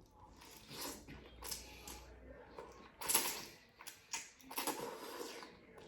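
Close-up eating sounds of shrimp scampi pasta: a string of short scrapes, clicks and mouth noises from fork, plate and chewing, the loudest about three seconds in.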